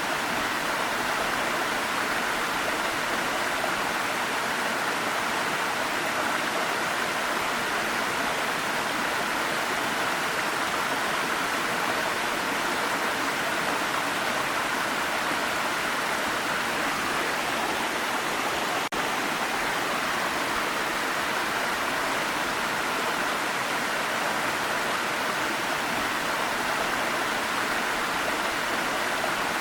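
Jungle waterfall rushing as a steady, even wash of falling water, with one momentary dip about two-thirds of the way through.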